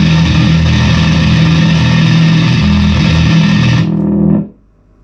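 Fender Squier Bass VI six-string bass played through a fuzz pedal: thick, heavily fuzzed sustained notes that cut off suddenly about four and a half seconds in, leaving a low amp hum.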